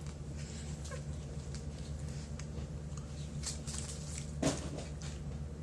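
Small clicks and rustles of food and wrappers being handled while eating, with one louder knock about four and a half seconds in, over a steady low hum.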